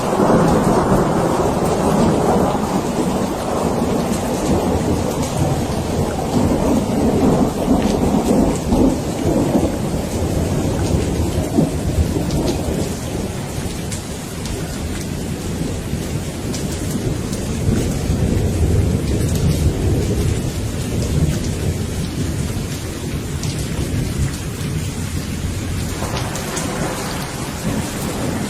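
Steady rain with rolling thunder. A heavy rumble breaks right at the start and dies away over about ten seconds, another swells around two-thirds through, and a fresh one begins near the end.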